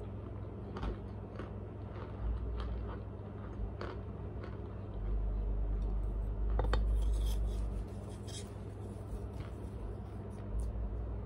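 Chewing raw Argo cornstarch chunks: scattered small clicks and crumbling in the mouth, the chunks soft rather than crunchy. A steady low hum runs underneath, with a low rumble rising for a few seconds in the middle.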